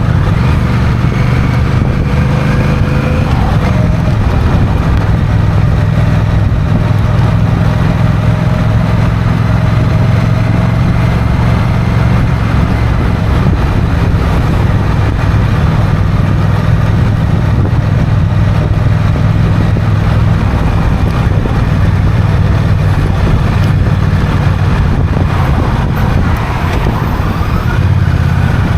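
Honda CMX1100 Rebel's parallel-twin engine running steadily while riding on the road, with a short rise in pitch near the end.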